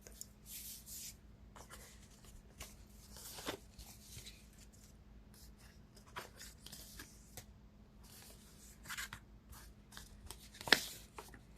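Cards being handled at a table: soft, scattered sliding and rustling strokes, with one sharp tap near the end.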